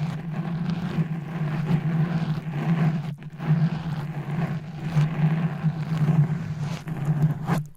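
A motor running steadily with a low hum, briefly dipping about three seconds in and stopping abruptly near the end.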